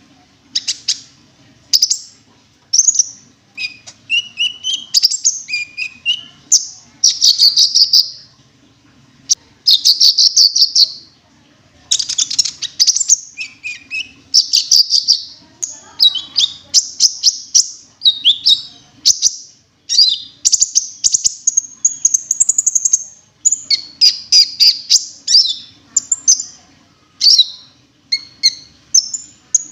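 Cinereous tit (gelatik batu) singing and calling: rapid, repeated bright chirping phrases that follow one another with only short gaps, played as a bird-lure recording.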